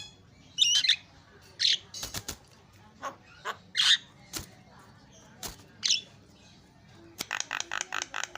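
Javan myna (jalak kebo) calling: a string of harsh squawks and sharp clicks, then near the end a fast run of repeated notes, about six a second.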